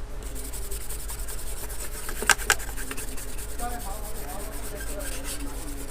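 A brush scrubbing a monitor's power-supply circuit board clean after soldering, in quick, even back-and-forth scratchy strokes. Two sharp clicks about two seconds in.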